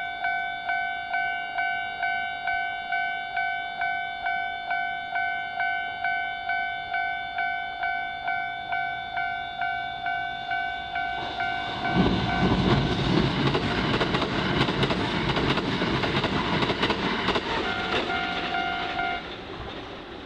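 Japanese level-crossing warning bell ringing about twice a second, two pitches together. About twelve seconds in, a Kintetsu Nagoya Line train passes over the crossing with a loud rush and rumble of wheels on rail; the train noise and the bell stop together about a second before the end.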